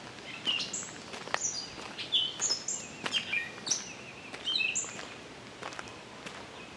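Songbirds chirping: a quick run of short, high calls on several different notes, thinning out near the end.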